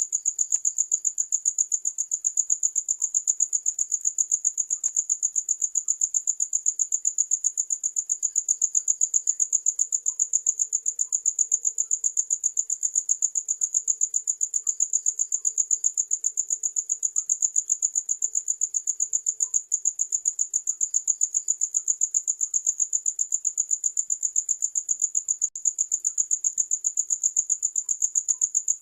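Cricket chirping steadily: a high-pitched chirp repeated evenly about five times a second.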